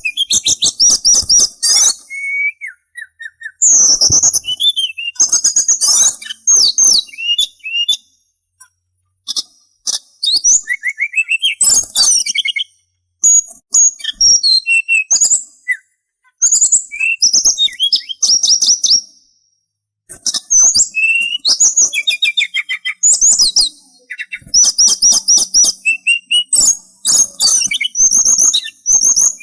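Sulingan songbird singing in rapid bursts of high chirps, whistled notes and trills, in phrases of a few seconds with short pauses between them. This is a recording played as a masteran, song for other songbirds to learn from.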